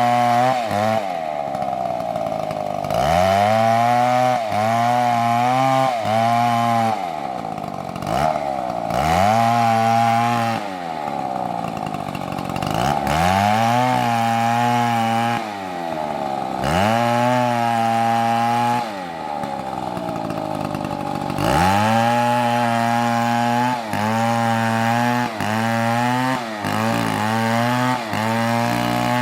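Two-stroke chainsaw cutting into a tree, its engine climbing to full-throttle pitch and sagging back over and over, about every two seconds.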